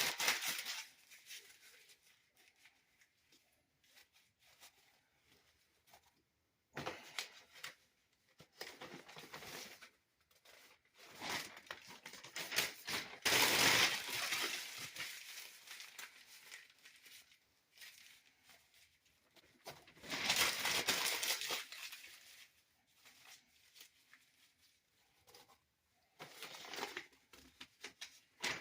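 Newspaper being crumpled by hand into tight balls for fire kindling: several bursts of crackling paper with short pauses between them.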